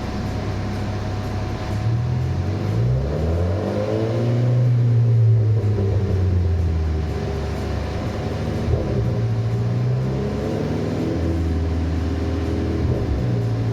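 Renault Clio 4 RS 200's 1.6-litre turbocharged four-cylinder engine accelerating under load. The engine note climbs, holds high, drops, then climbs again, with a brief click at each drop.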